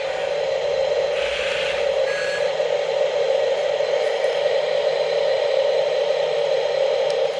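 Small electric motors and gearing of a remote-control toy construction machine whirring steadily, with a brief scraping hiss about a second in.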